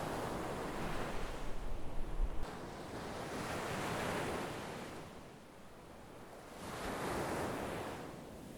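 Sea waves breaking and washing up the shore, rising and falling in about three swells. A low wind rumble on the microphone runs through the first two seconds or so.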